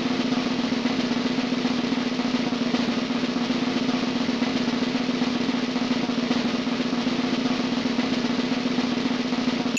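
A snare drum roll sound effect, held steady and even as a build-up of suspense, then cut off abruptly at the end.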